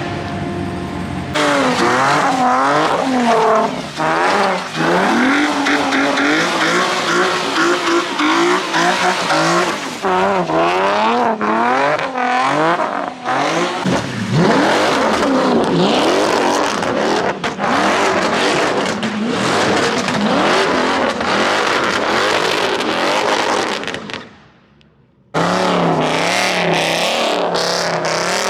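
Car engine revving up and down again and again with tyre squeal, as in burnouts and donuts at a street pit. The sound cuts out briefly near the end, then carries on.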